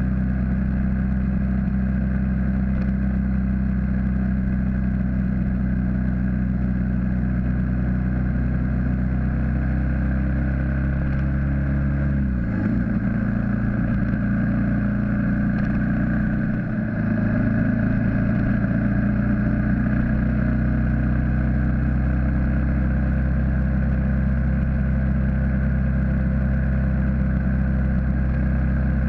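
BMW G650GS single-cylinder engine pulling steadily at road speed. Its note dips and recovers twice about halfway through.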